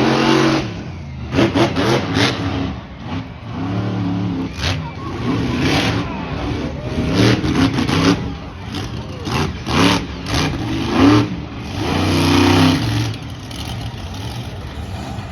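Monster truck engines revving hard in repeated bursts, pitch climbing and dropping, with sharp cracks in between. The loudest rev comes about eleven seconds in.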